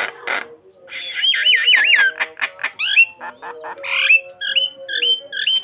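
Starling (jalak) singing a varied song: a couple of harsh notes at the start, then a run of looping whistles, clicks and a rising whistle, and from about the middle a string of short repeated whistled notes, about three a second.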